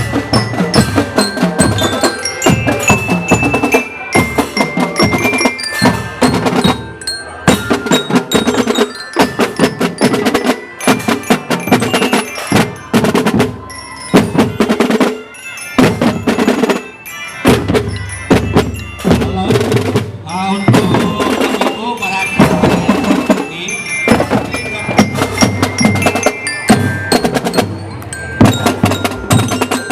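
School drum band playing a march: drums keeping a dense beat while glockenspiel bells carry a stepping melody above them.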